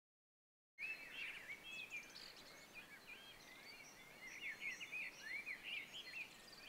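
Birds singing: many short, quick chirps and whistles over a faint outdoor hiss, starting about a second in.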